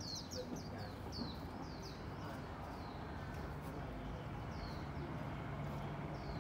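Small birds chirping: a run of short, high, downward-slurred chirps, quick-fire in the first second or so and then more spaced out, over a steady low background rumble.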